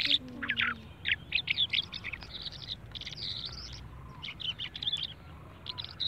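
Small caged birds chirping and twittering in quick runs of short, high chirps.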